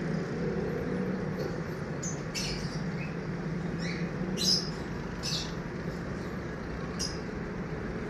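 Short, high bird chirps, scattered about once a second, over a steady low hum.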